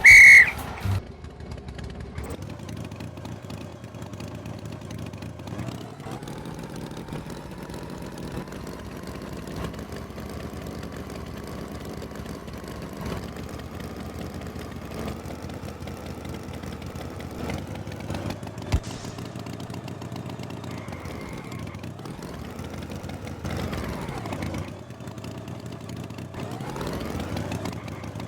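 Tractor engine running steadily, its pitch rising and falling as it revs a few times near the end. A short, loud, high-pitched sound right at the start.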